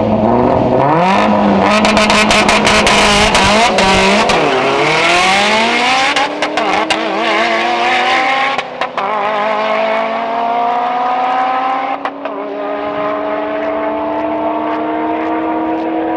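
A drag-racing vehicle launching off the line and accelerating hard down the strip, its engine pitch climbing and dropping back at three gear changes, then fading near the end.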